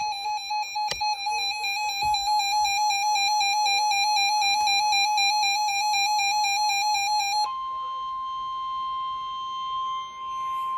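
A warbling electronic tone with a musical character for about seven seconds, then the steady single-pitch NOAA Weather Radio alert tone, which comes in sharply and holds, marking the start of a new warning broadcast.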